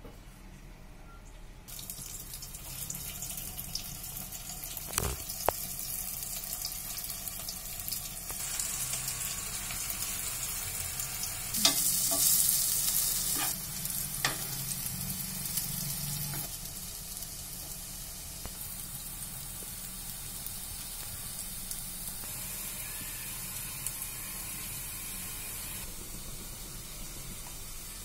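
Slices of cabbage vadi sizzling as they shallow-fry in oil in a nonstick pan, with a steady hiss that starts about two seconds in and swells louder around the middle. A metal spoon knocks and scrapes against the pan a few times as the pieces are turned.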